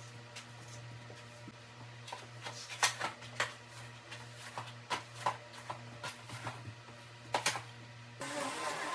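Scattered light clicks and knocks of cleaning work over a low hum, then a vacuum cleaner switches on near the end and runs steadily.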